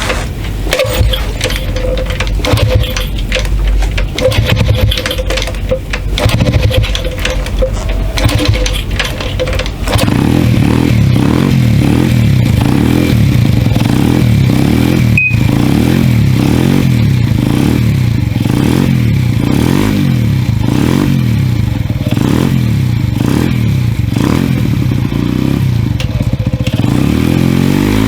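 Honda Monkey R's 49cc single-cylinder four-stroke engine. First comes about ten seconds of rough, uneven mechanical noise. From about ten seconds in the engine runs steadily, its revs rising and falling over and over as the throttle is worked.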